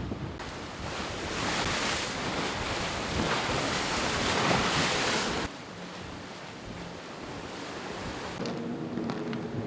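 Water rushing past a racing sailboat's hull with wind on the microphone, loud and steady, cutting off abruptly about five seconds in. Afterwards a quieter hiss, joined near the end by a low steady hum.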